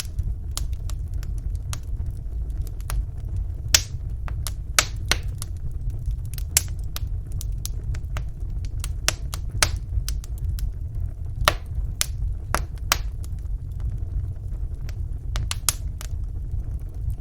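Wood fire burning in a fireplace: irregular sharp crackles and pops from the burning logs, several a second and a few louder ones, over a steady low rumble of the flames.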